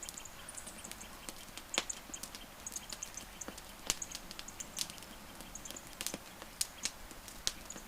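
Wood campfire crackling: irregular sharp pops and snaps over a soft hiss. Faint, short high-pitched chirps come in small clusters now and then.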